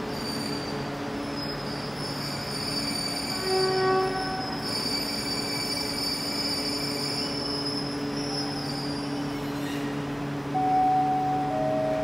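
Passenger train coaches rolling slowly to a stop, with a steady high-pitched squeal of brakes and wheels. Near the end comes a three-note chime that steps down in pitch, from the station's public-address system.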